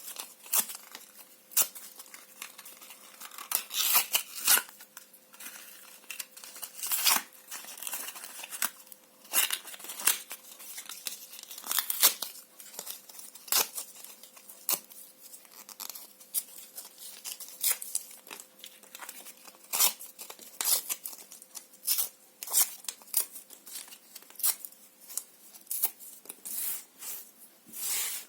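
Paper and cardboard being torn by hand: a long run of irregular sharp rips and crinkles, some short and snappy, some drawn out.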